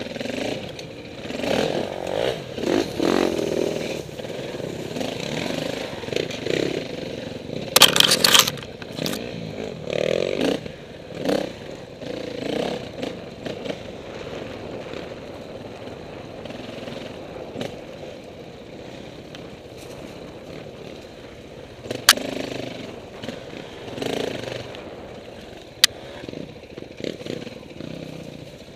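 Off-road motorcycle engine revving up and down unevenly, with clattering and scraping. About eight seconds in there is a brief loud burst, and two sharp clicks come near the end.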